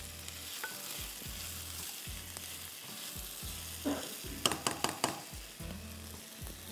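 Diced onion and chicken sausage pieces sizzling steadily in a little oil in a nonstick frying pan, stirred with a silicone spatula, with a short run of sharper clicks of the spatula against the pan a little past halfway.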